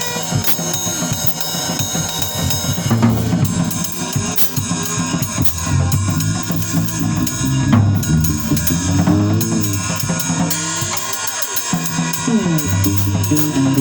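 Drum kit and bass playing as a duo. The drums play alone at first, and the bass comes in about three seconds in with low held notes and sliding pitches.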